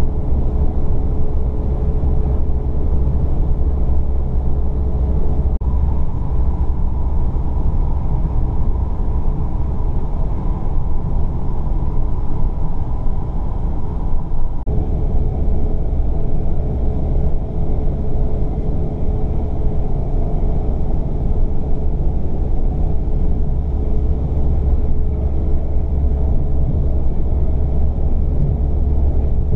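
Inside the passenger saloon of a Class 444 Siemens Desiro electric multiple unit running at speed: a steady rumble from the wheels and running gear on the track, with a steady hum over it.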